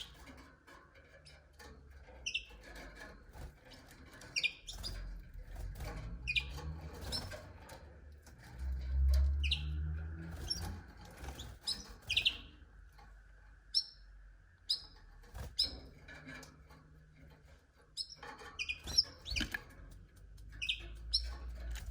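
Canaries giving short, high chirps, scattered every second or so, with a low rumble about nine seconds in.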